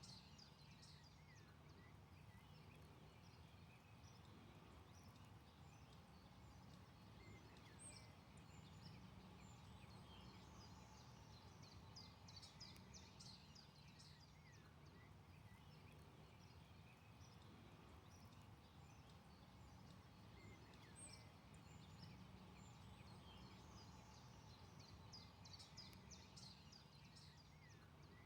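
Faint birdsong: clusters of short, high chirps and trills that come and go, over a steady low background hum.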